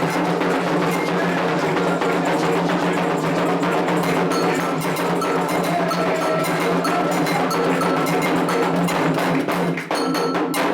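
Candomblé ritual percussion: hand drums (atabaques) played steadily with a metal bell (agogô) striking the rhythm, all stopping abruptly at the end.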